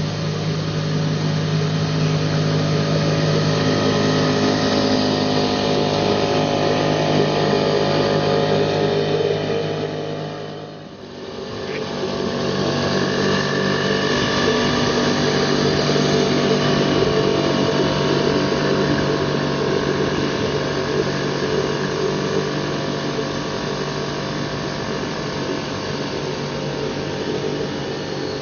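1957 British Seagull model 102 single-cylinder two-stroke outboard motor running steadily. The sound dips briefly about eleven seconds in and then picks up again.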